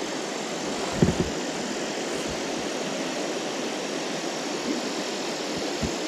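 Steady rush of moving river water, with a soft knock about a second in and another near the end.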